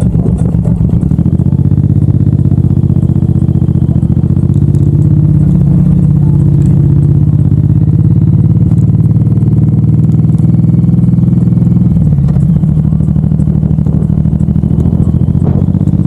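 Suzuki M109R's 1783 cc V-twin engine running with a steady, low note. Its pitch dips briefly about twelve seconds in, then recovers.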